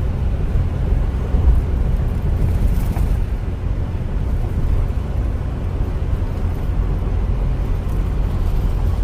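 Car driving up a mountain road: a steady low rumble of engine and road noise.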